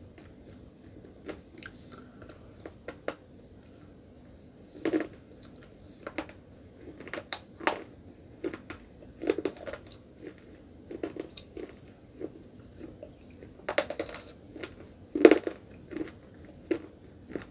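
Slate pencil bitten and chewed close to the mouth: irregular sharp crunches with chewing between them, the loudest about 15 seconds in.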